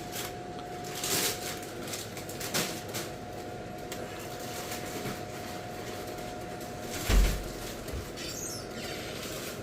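Scattered clicks and knocks of tools and plastic parts being handled while a boiler's circuit board is worked free of its plastic casing, with one louder, deep thump about seven seconds in. A faint steady tone stops at about the same moment.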